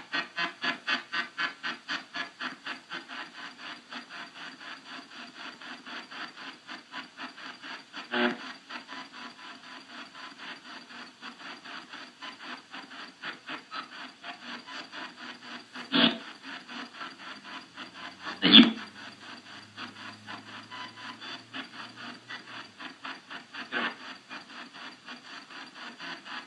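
Spirit box sweeping through radio frequencies: a choppy run of short static pulses, about four or five a second, with a few louder bursts breaking through.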